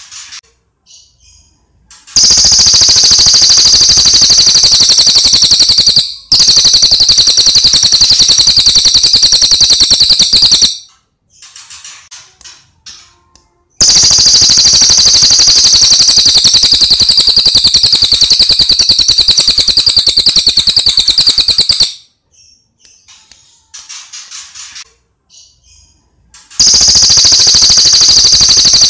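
Songbird song from a recorded bird-song master track: long, loud, very fast rattling trills of high chirps, four of them, each lasting several seconds, with soft scattered chirps between them.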